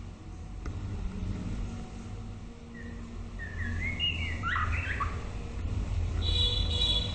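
White-rumped shama singing: a short phrase of quick, sliding whistled notes about halfway through, then a higher, steadier note near the end, over a low steady rumble.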